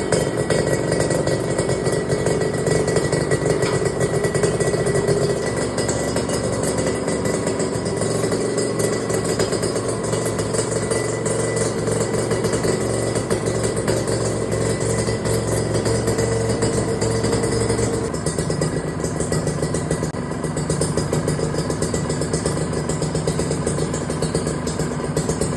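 Kawasaki Ninja RR's two-stroke single-cylinder engine idling steadily after a cold start. About eighteen seconds in, the note of its running shifts lower.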